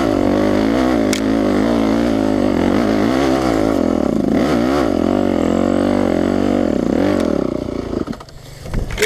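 Yamaha enduro motorcycle engine running, its revs wavering up and down as the bike crawls over rough ground, then dropping away about eight seconds in.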